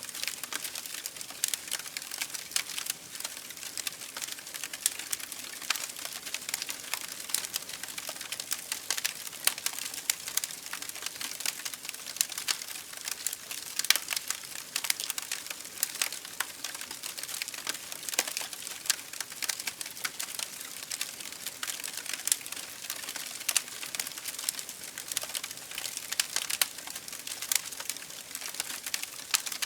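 Campfire burning with continual crackling and popping of wood over a soft hiss.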